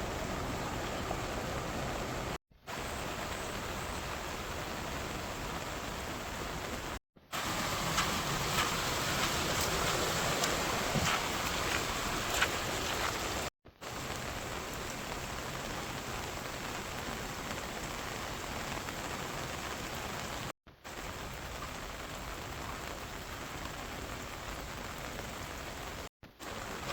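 Steady rain falling, broken into short stretches by a few sudden brief gaps. In the stretch from about a quarter to half way through it is louder, with many distinct drops ticking.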